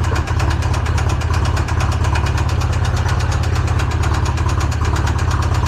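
Polaris RZR engine running steadily with a rapid, even knocking, which the owner calls knocking like crazy. The owner takes it for a rod bearing seized to the crankshaft after oil pressure was lost; the engine is filled with Lucas oil.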